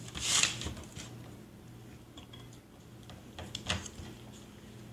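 Paper calendar being handled: a short rustle of paper about half a second in, then a couple of light taps or clicks near the end, over a faint steady low hum.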